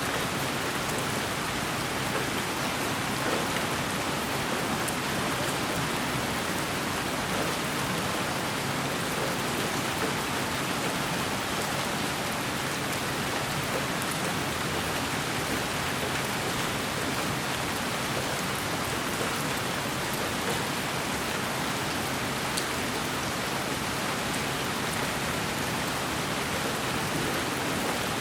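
Steady white noise that sounds like rain: an even, unbroken hiss with faint scattered ticks like drops, played as a sleep sound for a baby.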